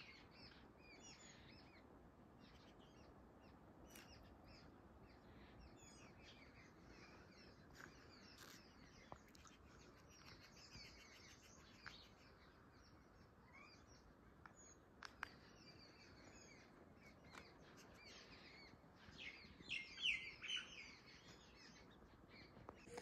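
Faint chirping and twittering of several small birds, scattered short calls throughout with a busier run of calls near the end. A couple of faint sharp clicks.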